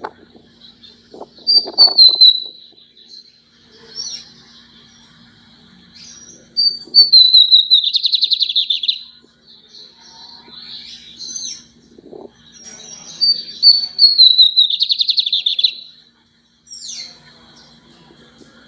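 Lined seedeater (bigodinho) singing three song phrases, each a run of descending high notes that ends in a rapid buzzy trill, with softer chirps in between. A faint steady low hum runs underneath.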